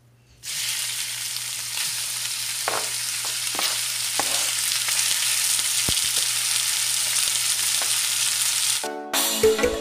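Diced raw chicken dropped into a hot oiled frying pan, bursting into a steady sizzle about half a second in, with a few clicks of the utensil stirring it. The sizzle cuts off suddenly near the end and music starts.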